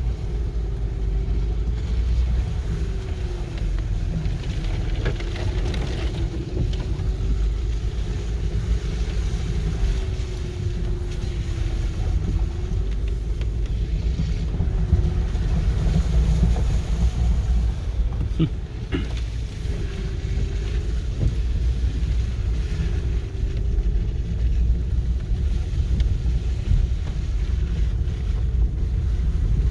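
2006 Honda Pilot's V6 running under a steady low rumble as the SUV drives along a rough rail bed, its note rising and falling slowly with the throttle. A few sharp knocks come about two-thirds of the way through.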